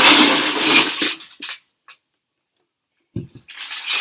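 Rustling and clattering of Duplo train set pieces and packaging being handled. It stops about a second and a half in, there is a single low thump about three seconds in, and then the rustling starts again.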